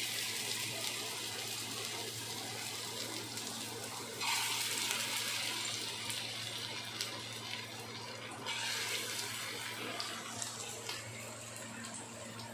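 Chicken seekh kababs sizzling as they shallow-fry in hot oil on a flat pan. The sizzle swells louder about four seconds in and again about eight and a half seconds in.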